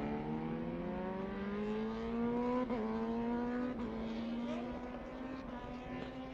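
Racing motorcycle engines at full throttle, their pitch climbing steadily, with two brief dips about three and four seconds in.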